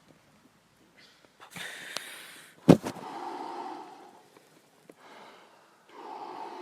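Forceful deep breathing in the Wim Hof breathing method: a long hissing inhale, a sharp snort-like catch, then drawn-out breathy exhales, one after another.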